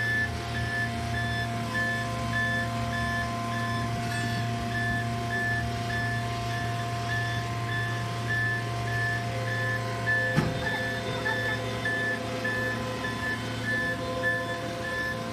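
Backup alarm on a piece of heavy equipment beeping steadily, about one and a half beeps a second, over its diesel engine running. A single sharp knock about ten seconds in.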